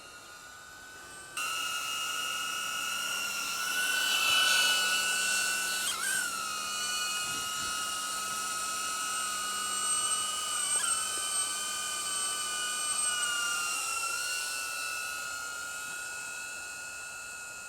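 DJI Avata drone's ducted propellers and motors whining in flight, a steady high buzz. It cuts in sharply a second or so in, dips briefly in pitch twice, and fades slowly over the last few seconds.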